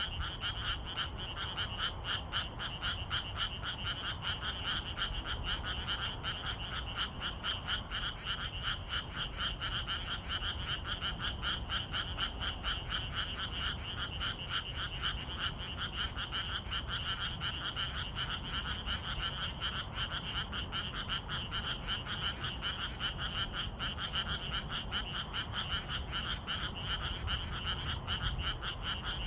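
Frog chorus: many frogs calling at once in a steady stream of rapid, pulsing croaks.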